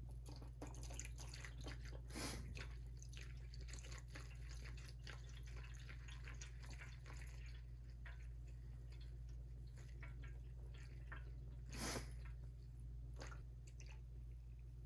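Diesel fuel being poured into a small single-cylinder diesel engine's fuel tank, a faint trickle and dripping, with two louder short knocks, about two seconds in and near the end.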